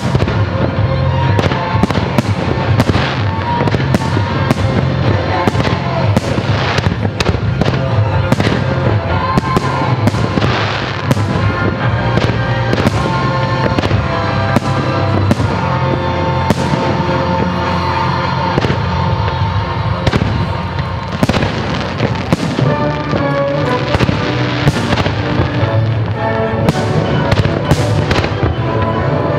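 Aerial firework shells bursting one after another, sharp bangs throughout, over music with sustained tones and bass notes.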